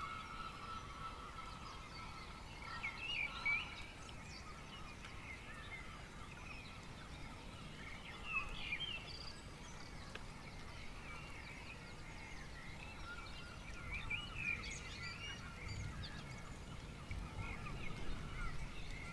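Birds calling: a honking call fades out right at the start, then a few short chirpy calls come every several seconds, over a faint steady hiss.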